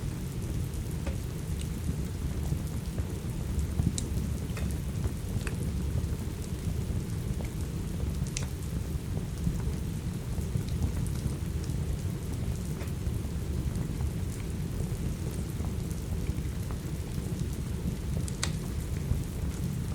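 Steady rain over a low, continuous rumble, with scattered sharp pops from a crackling wood fire every second or two.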